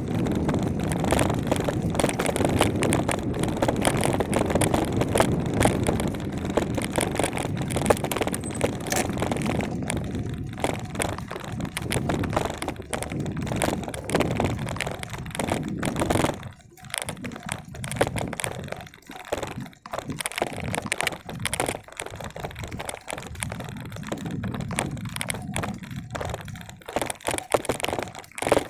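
Wind rushing over the microphone of a moving bicycle, steady at first, then breaking up into irregular crackling and rustling with short lulls after about ten seconds as the ride slows.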